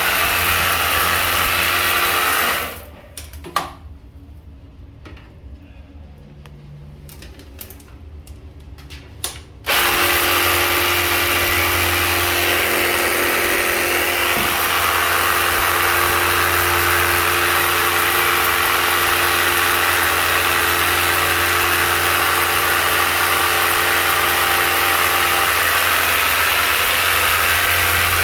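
Narion 30-bar pressure washer running with a steady motor hum and hissing water spray. It cuts out about three seconds in, leaving a quieter gap with a few clicks, then starts up again about seven seconds later and runs steadily.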